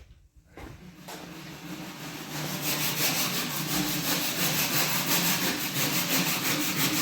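A machine running with a steady rasping noise over a low hum, building up over the first two seconds and then holding steady.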